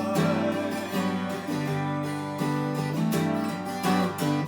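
Acoustic guitar strummed in a steady rhythm, playing the instrumental accompaniment between sung lines of a slow ballad.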